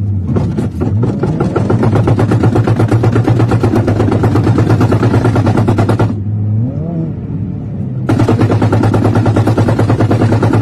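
A car's engine at a constant pitch with a very rapid, even, machine-gun-like rattle. It cuts off abruptly about six seconds in and starts again about two seconds later.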